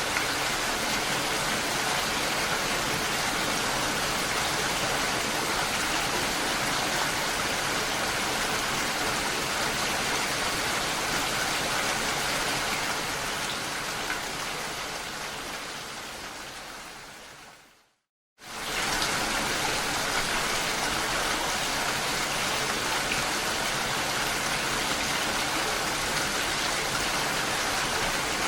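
Steady, dense rain hiss. About two-thirds of the way through it fades out over several seconds, falls silent for half a second, then comes straight back at full level: an edit or loop point in the recording.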